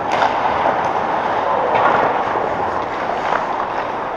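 Echoing indoor arena game play: sharp knocks and clacks from the play on the surface, several in a few seconds, over a steady wash of rink and crowd noise.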